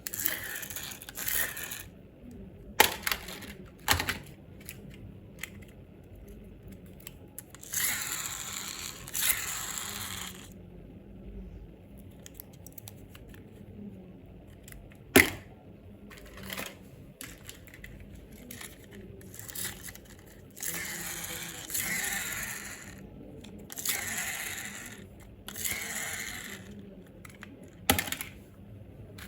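Packaging being handled and torn open: bursts of crinkling and rustling, with a few sharp clicks, one much louder than the rest about halfway through.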